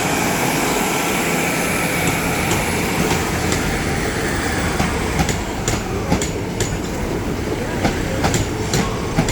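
Class 150 diesel multiple unit running through the station, its wheels clicking over the rail joints, the clicks coming more often in the second half.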